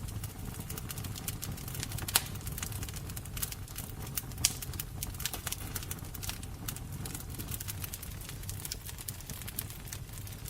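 Fire crackling: a dense run of irregular crackles and small pops over a steady low rumble of flames, with two sharper pops about two and four and a half seconds in.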